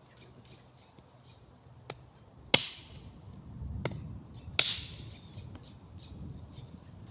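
Hatchet chopping into a rain-wet stick, stripping off the wet outer layer to reach the dry wood beneath: four sharp strikes over about three seconds, the second and fourth the loudest.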